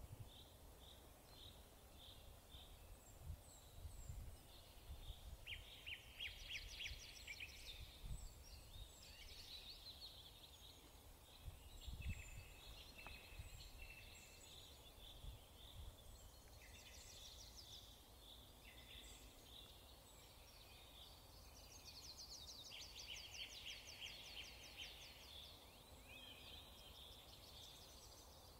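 Birds chirping, with many short calls and fast trills, faint throughout. A few dull low thumps come through, the loudest about twelve seconds in.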